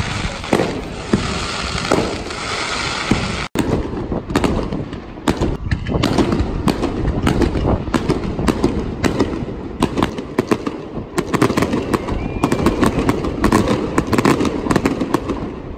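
Fireworks display: many bangs and crackles of bursting shells, coming thick and fast after a sudden cut about three and a half seconds in. Before the cut there is a steady hiss of outdoor background noise.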